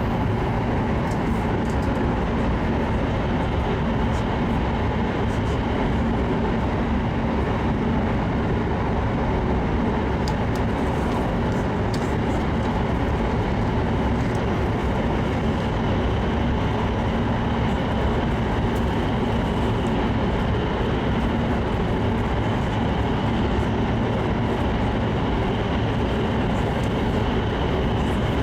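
Steady running noise of an E7 series Shinkansen train heard from inside a passenger car: an even rumble and hiss that does not change, with a few faint ticks about ten seconds in.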